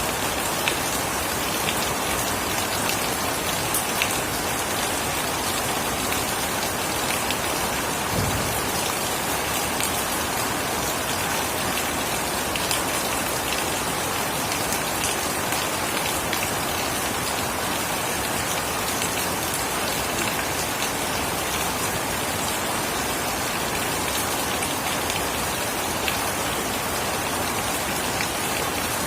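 Steady heavy rain falling, with scattered individual drops ticking over the even hiss.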